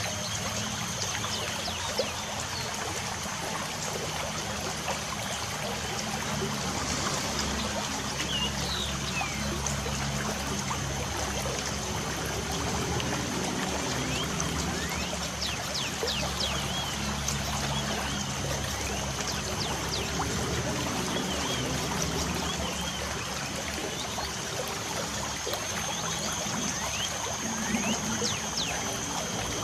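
Light rain falling steadily, with birds chirping on and off throughout.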